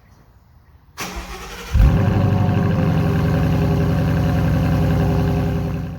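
2017 Ford Mustang GT's 5.0 L V8, with resonator delete and Ford Performance mufflers, being started: the starter cranks for under a second, the engine catches with a loud flare, then settles into a steady idle. It cuts off abruptly near the end.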